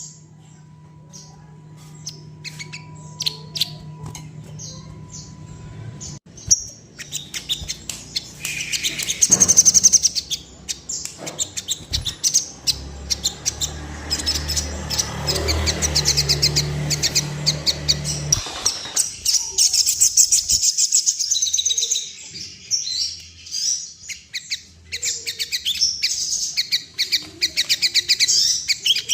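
Sogon singing in a fast, dense, high-pitched chattering stream of notes that starts about six seconds in, over a low hum.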